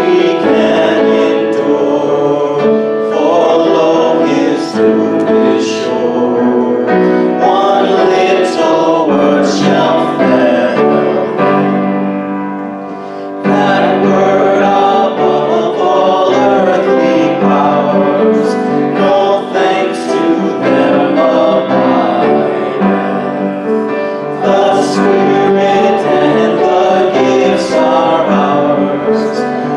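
Choir singing with piano accompaniment. The music dips briefly about twelve seconds in and comes back in strongly a second later.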